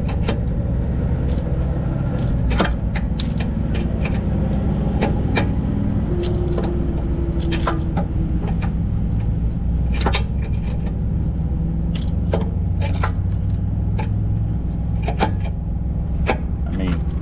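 Irregular metallic clicks and clinks of hand tools working on the air spring's mounting nuts and studs, over a steady engine hum.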